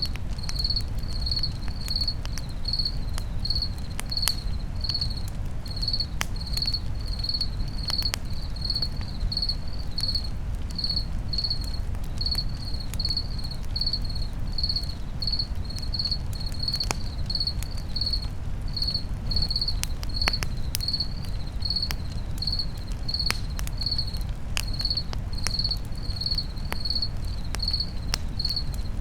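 A cricket chirping steadily, about two short high chirps a second, over a campfire crackling with scattered sharp pops and a steady low rumble.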